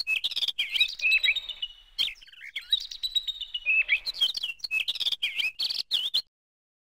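Small birds chirping in quick, repeated, curving notes, with sharp clicks scattered among them. It cuts off abruptly about six seconds in.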